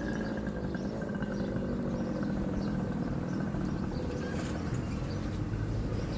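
Motor vehicle engine running, a steady hum whose pitch drifts slightly.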